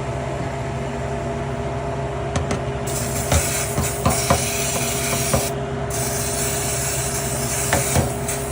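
WD-40 aerosol sprayed onto metal tools and steering parts: a long hissing rush that starts about three seconds in, breaks briefly and resumes, with a few sharp metal clinks as the parts are handled. A steady low hum runs underneath.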